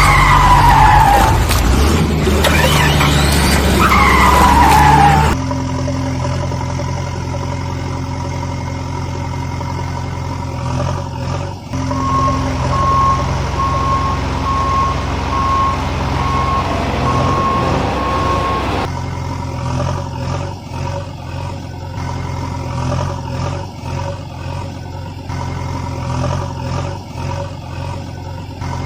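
Cartoon vehicle engine sound effects running steadily. In the first five seconds there are loud falling squeals like skidding tyres, and from about 12 to 19 s a regular beeping like a reversing alarm.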